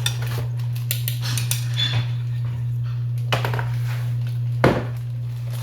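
Kitchen utensil clinking and knocking against a bowl a few times as batter is poured into a bag, the loudest knock near the end, over a steady low hum.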